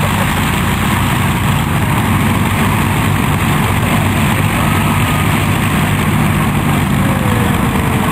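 A piston engine running steadily at an even pitch, with no change in speed.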